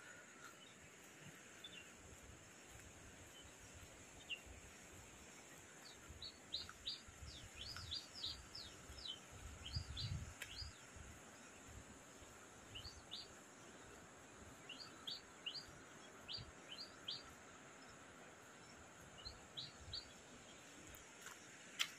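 Small birds chirping faintly in quick runs of short, falling chirps over a steady faint hiss. Soft low thumps come in the middle, and a sharp click comes near the end.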